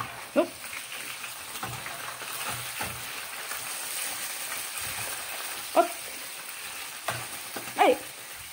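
Pieces of liver sizzling steadily in oil in a frying pan while being stirred and turned with a metal spatula. A few short, sharp pitched sounds cut through: about half a second in, near six seconds and near eight seconds.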